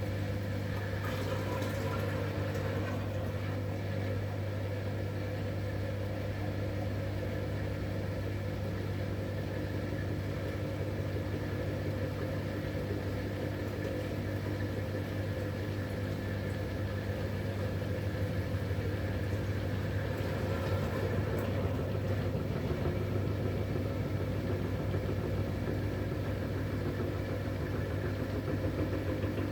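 2011 V-Zug Unimatic SL washing machine running steadily, a constant low hum with several steady higher tones, getting a little louder about two-thirds of the way in.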